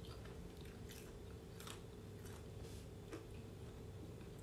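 Faint crunching and chewing of a bite of crispy batter-fried chicken, a few irregular crunches about a second apart.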